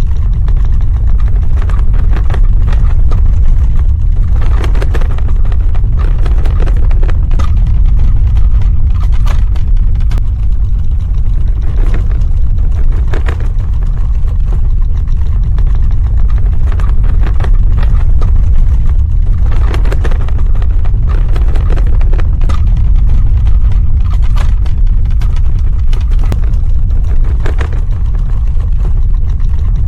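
Earthquake sound effect: a deep, continuous low rumble, with scattered crackling and rattling on top.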